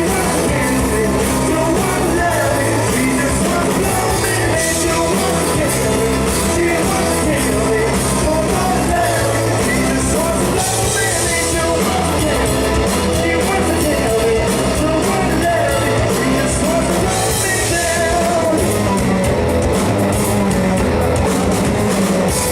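A rock trio playing live, with a voice singing over the band; the music is loud and continuous throughout.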